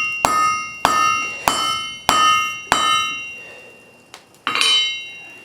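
Blacksmith's hammer striking hot wrought iron on an anvil to draw it out: five steady blows about 0.6 s apart, each leaving the anvil ringing. The blows stop about three seconds in, and a lighter metallic clang follows near the end.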